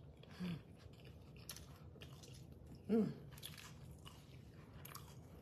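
A person chewing a mouthful of a bread-roll sandwich, with faint soft mouth clicks. Two short "mm" sounds come from the closed mouth, a faint one about half a second in and a clearer one about three seconds in.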